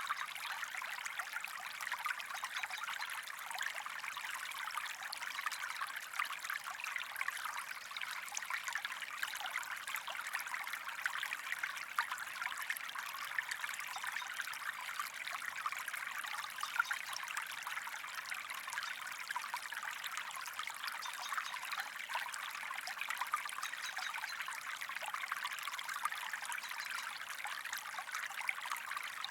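Creek water running and trickling steadily over stones, a bright, even babbling with many small splashes and little low rumble.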